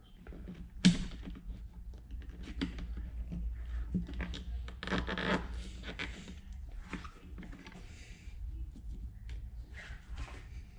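Hand work on the engine's ignition leads: irregular scratching and scraping of cables and plastic being handled, with one sharp click about a second in.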